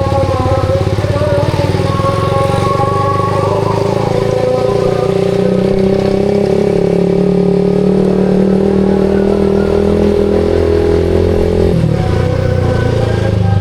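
Suzuki GSX-R150's 150 cc single-cylinder engine running through a SARP aftermarket exhaust at steady cruising revs while riding. About twelve seconds in, the note changes abruptly, as with a throttle change or gear shift.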